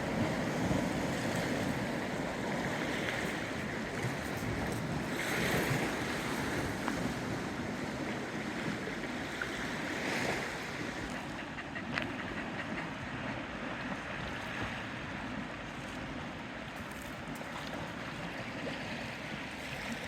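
Small waves lapping and washing at the water's edge, swelling every few seconds, under steady wind noise on the microphone. A single sharp click about twelve seconds in.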